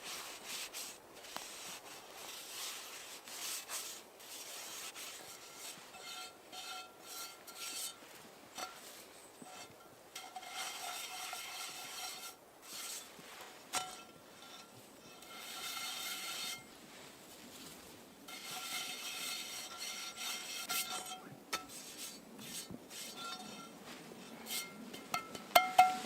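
Irregular rubbing and scraping strokes, some with a faint squeak, and a couple of sharp knocks near the end.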